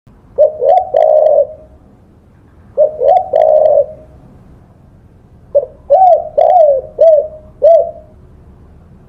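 Spotted dove (tekukur) cooing in three phrases. The first two are three coos each, ending in a longer drawn-out note. The third is a run of five coos.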